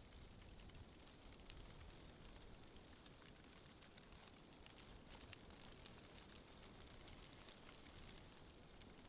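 Faint, steady wind ambience: a soft low rumble and hiss, with scattered light ticks and rustles.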